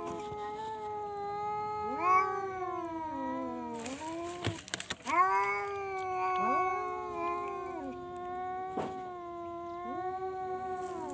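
Domestic cat yowling in long, drawn-out calls, each rising in pitch at the start, one following another and overlapping. A short burst of noise comes about four to five seconds in.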